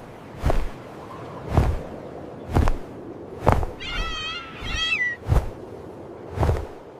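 Bird wings flapping, one whooshing wingbeat about once a second, with two short warbling chirps about four and five seconds in.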